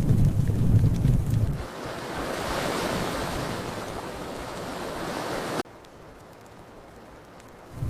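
Fireplace fire with a low roar and sharp crackles for the first second and a half. It then gives way to a steady rushing noise like surf, which cuts off suddenly about two seconds before the end, leaving only a faint hiss.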